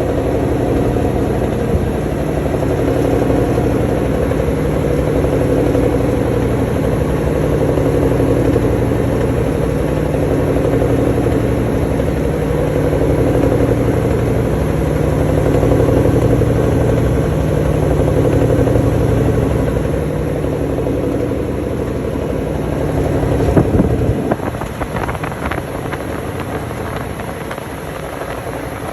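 Washing machine spinning its drum on the spin cycle, a loud steady mechanical hum. A little before the end there is a brief louder knock, and the deep hum drops away suddenly, leaving a quieter, rougher running sound.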